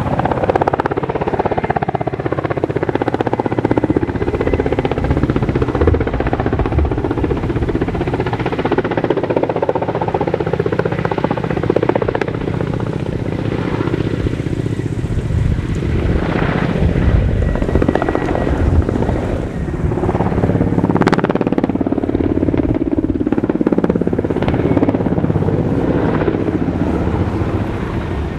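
Helicopter flying a display, its rotor beating rapidly over a loud, steady engine noise.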